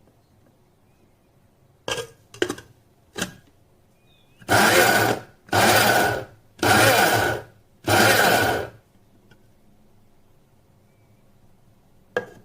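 BioloMix 300 W electric coffee and wet-dry food grinder run in four short pulses of about a second each, a loud whirring buzz that stops between pulses. A few sharp clicks come before the pulses, and one more comes near the end.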